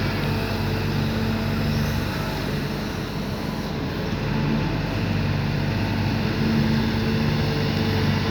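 Sumitomo SH210 long-arm excavator's diesel engine running steadily under work, its level dipping slightly near the middle and swelling a little later on.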